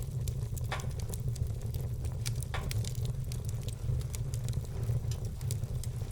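Wood fire crackling with frequent small sharp pops over a steady low rumble of the flames, with two louder pops about a second and two and a half seconds in.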